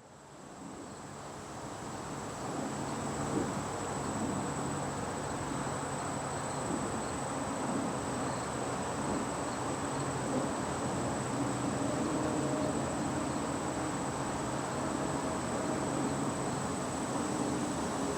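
Outdoor ambience of insects: buzzing with a constant high-pitched whine over a steady low rumble. It fades in over the first couple of seconds, then holds steady.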